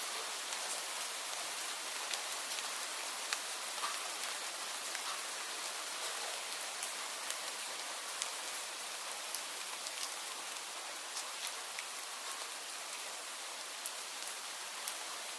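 Wind rustling through tree leaves: a steady hiss with many scattered light ticks.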